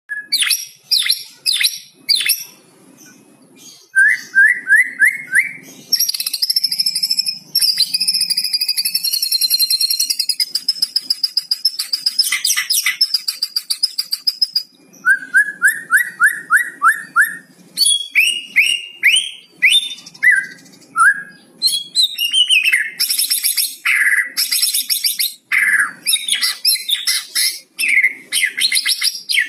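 White-rumped shama (murai batu) singing a varied, continuous song: runs of quick rising notes about five a second, a long high buzzy trill, and rapid sharp chips and whistles.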